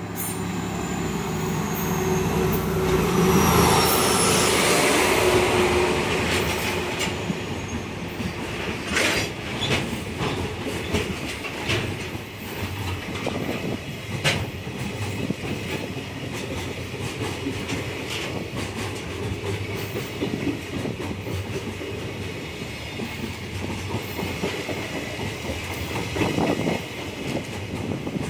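JR Freight DE10 diesel-hydraulic locomotive running through close by with its engine working, loudest a few seconds in. A long string of container wagons follows, rolling past with a rhythmic clickety-clack of wheels over the rail joints.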